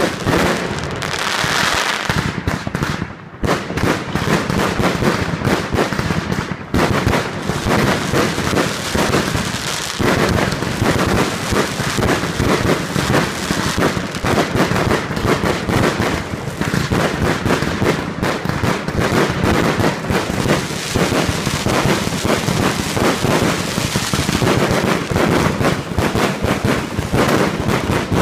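Fireworks going off in a dense, continuous barrage of rapid bangs and crackles, with a brief hiss near the start.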